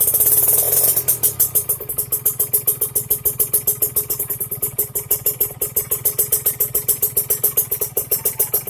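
Kawasaki Ninja RR two-stroke single idling through a custom Jimsco racing exhaust, a rapid, even popping beat. It is briefly louder in the first second.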